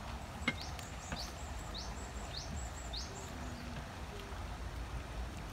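A bird chirping: a run of four quick upward-sweeping notes a little over half a second apart, over a steady low outdoor rumble, with a sharp click about half a second in.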